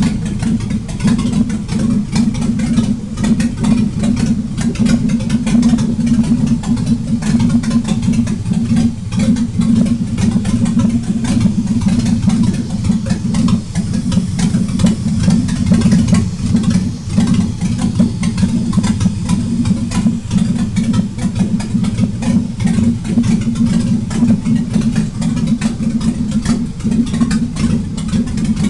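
GM Vortec 4.3 V6 engine idling steadily with no exhaust system fitted, an open, unmuffled rumble; the engine is running again after about six years standing.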